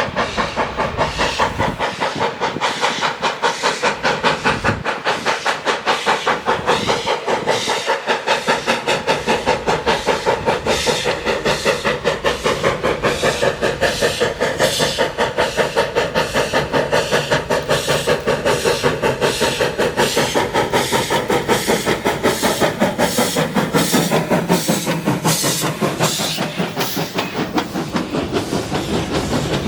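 Steam locomotive #18, a 2-8-0 Consolidation, working steadily with a rapid, even exhaust beat over a constant hiss of steam.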